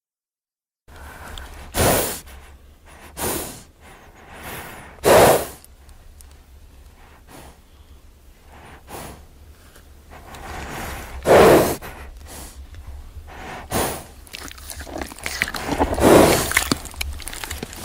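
A horse snorting, about six loud blowing snorts with quieter breathing and rustling between them.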